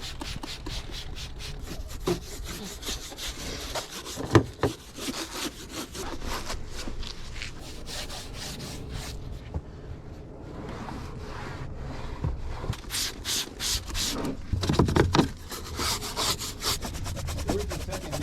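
A towel rubbing back and forth over a car's paint in quick, repeated strokes, wiping down spray wax; the strokes grow louder near the end.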